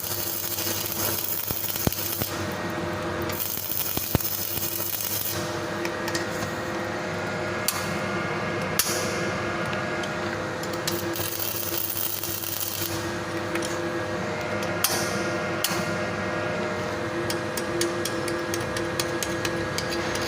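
Three-phase Weldcraft 500-amp arc welding machine on a test run after servicing: a steady electrical hum under the crackle and hiss of a welding arc, which swells and eases in uneven stretches with scattered sharp pops.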